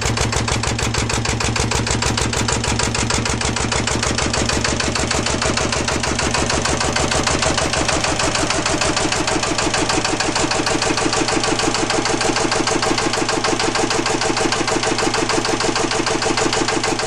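Lister LR1 single-cylinder diesel engine running steadily with a rapid, even exhaust beat through a straight-through exhaust with a homemade rain-cap.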